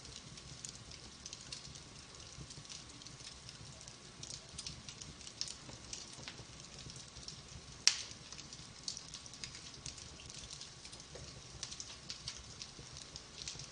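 Wood fire burning in a fireplace: logs crackling with frequent small irregular pops over a soft low rumble of flame, and one sharp loud pop about eight seconds in.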